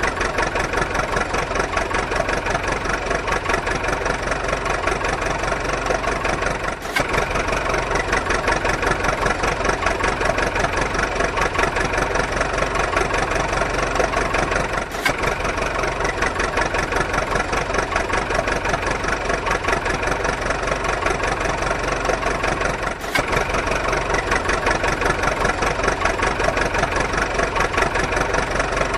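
Small engine idling with a fast, even chugging rhythm at a steady level, briefly breaking off about every eight seconds.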